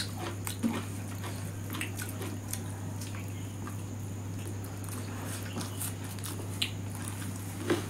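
Close-up eating sounds: chewing and wet lip smacks with small clicks as food is eaten by hand, over a steady low hum.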